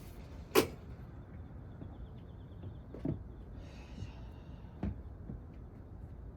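Handling noises during motorcycle engine disassembly: one sharp click a little over half a second in, then a few lighter knocks, with a brief faint hiss between them.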